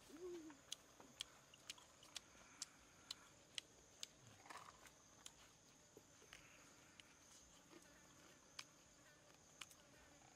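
Faint mouth sounds of a man biting and chewing a crispy fried chicken leg, with sharp crackly clicks about twice a second, then more sparsely. A steady high-pitched drone runs underneath.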